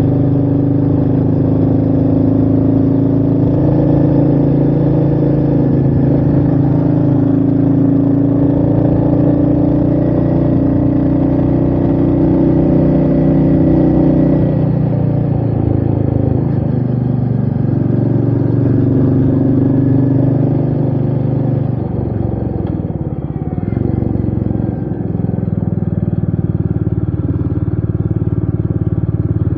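Royal Enfield Meteor 350's single-cylinder engine running steadily under way. Its note drops and then climbs back about three-quarters of the way through.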